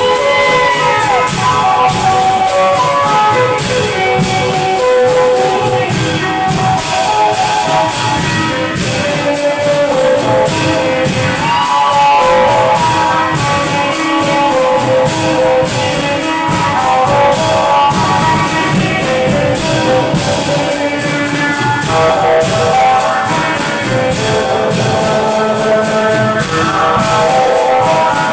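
Thai klong yao long-drum band playing: steady drumming under a melody of held notes, with a few bent notes near the start and about halfway through.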